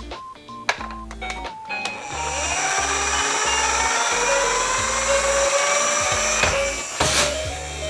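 A die-cast toy police car's wheels rolling down a slope: a steady rolling whirr that starts about two seconds in and grows with a slowly rising pitch as it speeds up, ending in a sharp knock near the end. A few light clicks come before it, over background music.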